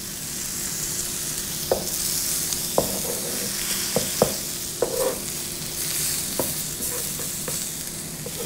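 Egg white omelette with diced peppers sizzling on a hot electric griddle. A spatula scrapes and taps against the griddle a dozen or so times as the omelette is flipped and shaped.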